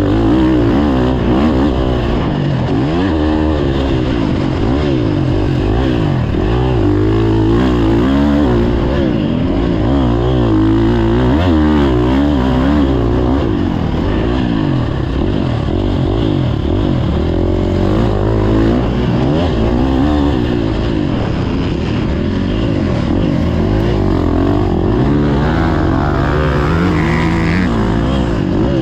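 Motocross dirt bike engines running hard, their revs rising and falling constantly, with more than one engine heard at once.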